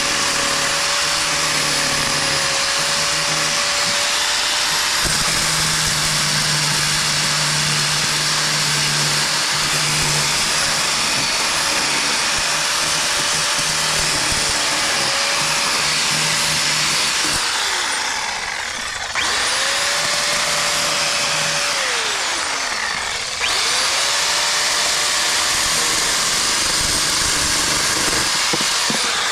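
Angle grinder cutting out bricks from a chimney, running steadily at full speed. Twice, about 18 and 22 seconds in, it is let off and spins down with a falling whine, then starts back up.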